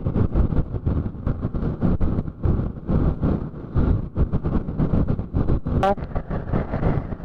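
Motorcycle riding at road speed, heard through a helmet microphone: engine and road rumble with wind buffeting the mic. About six seconds in a short rising tone cuts through.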